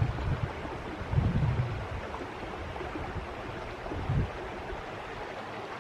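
Steady outdoor rushing noise, with low rumbling gusts of wind buffeting the microphone three times.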